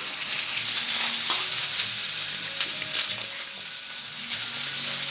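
Onion, garlic and ginger sizzling in hot oil in a pan, stirred now and then, a steady frying hiss.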